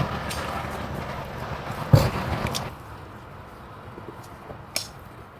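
Scraping noise from work on a horse's hoof that stops a little before three seconds in, with one heavy thud about two seconds in and a few light clicks afterwards.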